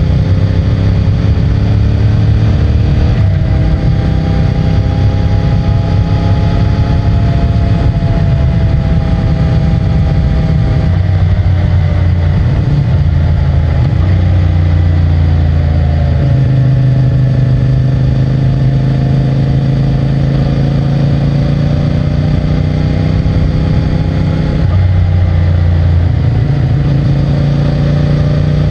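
CFMOTO 450MT motorcycle's parallel-twin engine and stock exhaust running under way, the engine note rising and dropping several times, with clear shifts about three, eleven, sixteen and twenty-five seconds in.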